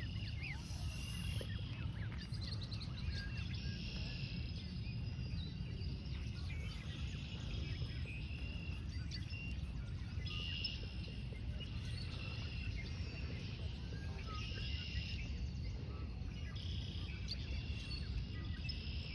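Small birds chirping and peeping repeatedly in high, short calls over a steady low rumble.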